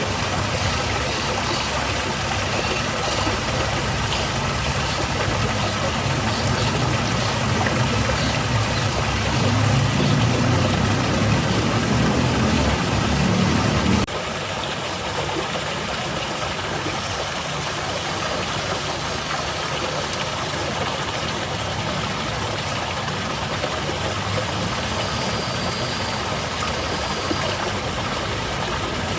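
Waterfall running with a steady, continuous rush of falling water. About halfway through, the sound changes abruptly and the deeper rumble underneath drops away.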